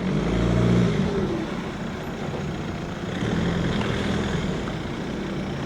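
A car's engine pulling away, loudest in the first second, then running steadily with a second swell as it drives off.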